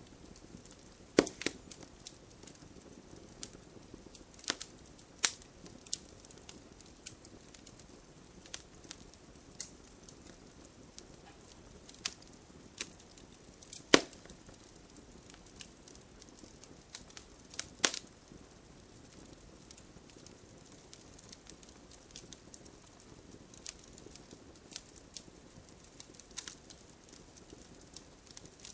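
Wood fire crackling: irregular sharp pops and snaps over a faint steady hiss, the loudest pop about fourteen seconds in.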